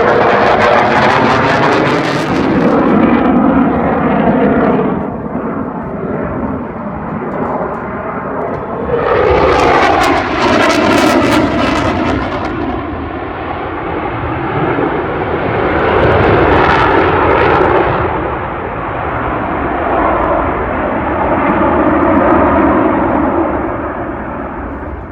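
Fixed-wing aircraft engines at an air display, a loud rush that swells and fades several times as the aircraft pass, with the pitch sweeping through each pass and the sound dying away at the end.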